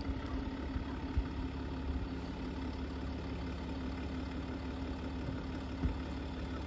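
Land Rover Discovery SUV's engine running at low revs as the vehicle reverses slowly, a steady low hum, with two brief thumps, one about a second in and one near the end.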